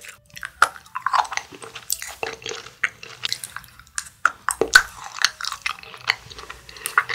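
A person chewing pieces of hollow chocolate, with many small, sharp mouth clicks.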